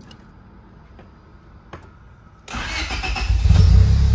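Honda car's engine cranking and catching about two and a half seconds in, then settling into a steady idle: the first start on a newly installed high-performance fuel pump.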